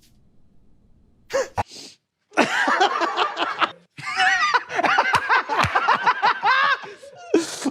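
People laughing hard, high-pitched and wavering, with short sharp bursts of breath about a second in and near the end.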